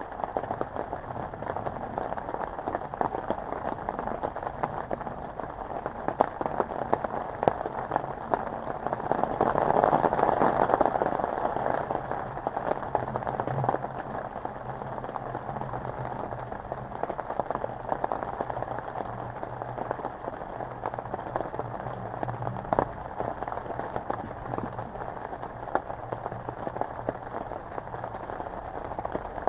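Steady rain falling, with many single drops tapping sharply on a surface close by; it swells heavier for a few seconds about a third of the way in.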